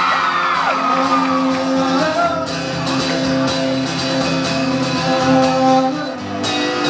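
Live acoustic guitar playing a song's instrumental break in a large hall, with a voice trailing off about a second in.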